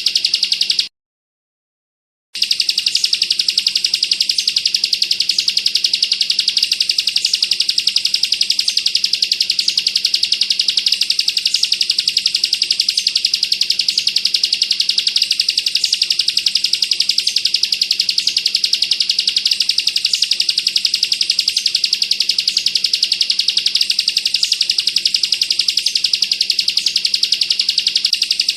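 Bar-winged prinia (ciblek) singing its dense, rapid 'bren' rattle, a fast machine-gun-like run of high notes. It cuts out for about a second and a half near the start, then resumes unbroken.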